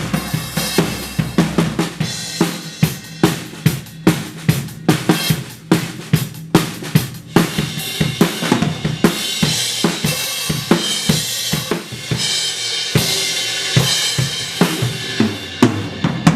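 Acoustic drum kit played in a recording take: kick, snare and hi-hat hits in a steady groove, with cymbals ringing heavily over the beat from about halfway through. Kick and snare hits that should land together don't quite line up, to the producer's ear.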